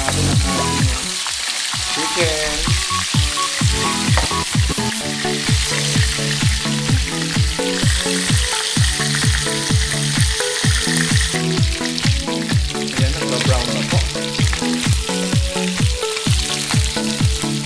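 Chicken pieces sizzling as they fry in a nonstick pan, turned now and then with a spatula. Under it runs background music with a steady beat of about two strikes a second.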